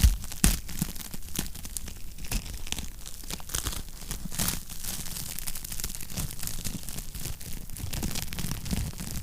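Wood fire crackling in a fireplace: irregular sharp pops and snaps over a low steady rumble, with one loud pop about half a second in.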